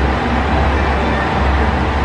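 Steady low rumble and hiss of trains at a railway platform, with no sudden events.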